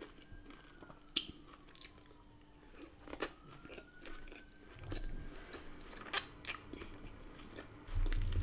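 Close-up chewing of a mouthful of salad and battered chicken (crisp lettuce, cucumber), with sharp crunches every second or two.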